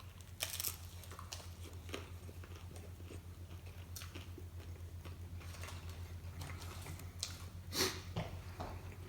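A person biting into and chewing a taco close to the microphone, with wet mouth clicks and two louder bites, one about half a second in and one near eight seconds. A steady low electrical hum runs underneath.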